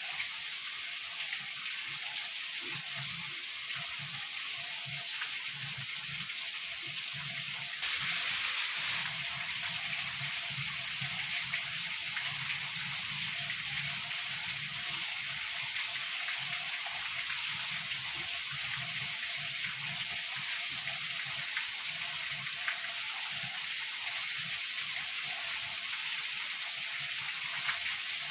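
Heavy rain falling in a steady hiss. It turns briefly louder for about a second about eight seconds in.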